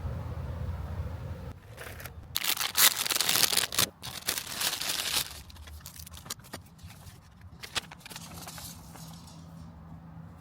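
Rustling, crinkling handling noise with sharp clicks, loudest a few seconds in, then quieter scattered clicks; a low rumble fades out in the first two seconds.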